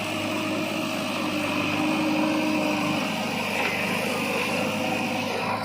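JCB 3DX Xtra backhoe loader's diesel engine running steadily, with a few held tones over a low hum.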